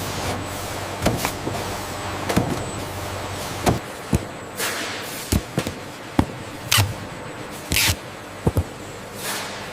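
Automated packaging machinery running: a steady hum under irregular sharp clacks and knocks, with several short hisses of air from about halfway through.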